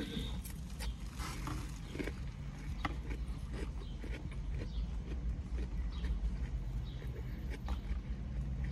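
Close-up chewing of a mouthful of salad, with scattered short crunches and clicks from the lettuce, croutons and plastic fork and container, over a steady low rumble from the parked car.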